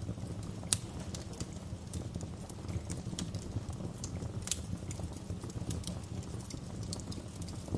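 Wood fire crackling in a fireplace: irregular sharp pops and snaps over a steady low rumble, with a louder pop just under a second in and another about four and a half seconds in.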